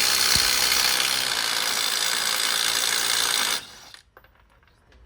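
A handheld power tool running steadily on the car's wheel hub, then stopping suddenly about three and a half seconds in, followed by a few faint clicks.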